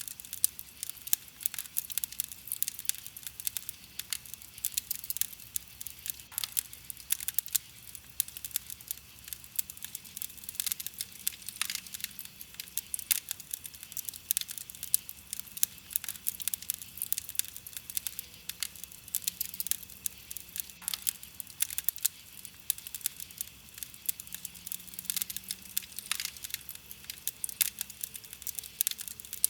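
Wood campfire burning with continuous, irregular crackling and small sharp pops from the burning wood.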